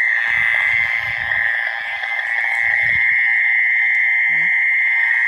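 Dense night chorus of frogs and insects: a steady, shrill, unbroken drone at one high pitch. Low gusts of wind rumble on the microphone during the first three seconds.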